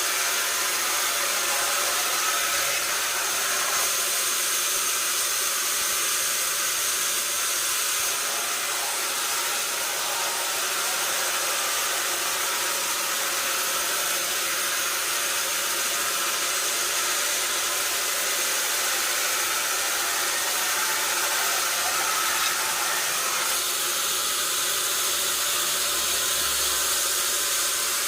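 Sawmill saw running steadily with a high, hissing whine, its tone shifting slightly a few times but never stopping.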